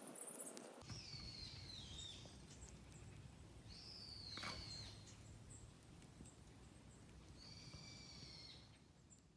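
Faint bird calls, three separate high calls a few seconds apart, over a low steady rumble of wind or outdoor ambience.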